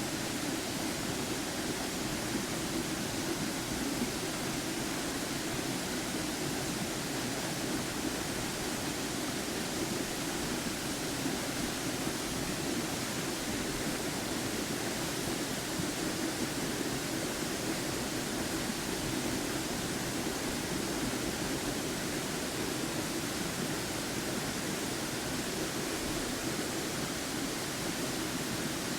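Waterfall rushing close by: a steady, even roar of falling water with no breaks.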